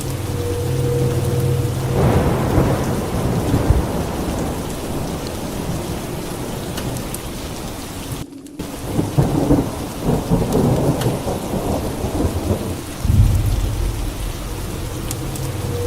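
Steady heavy rain with rolling rumbles of thunder that swell a couple of seconds in and again in the second half. The sound cuts out for a split second about eight seconds in.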